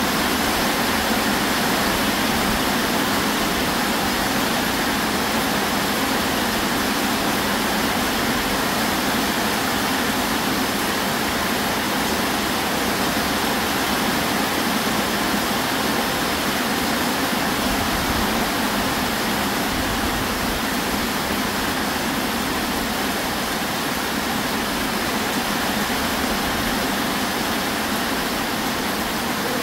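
Heavy tropical rain pouring down on foliage and the ground, a loud, steady, even hiss.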